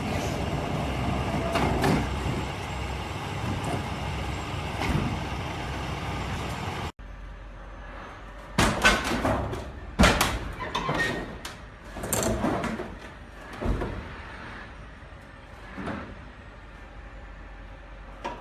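Road and vehicle noise from a dashcam recording, then after an abrupt cut about seven seconds in, a quieter recording with a run of loud bangs and knocks from a vehicle mishap.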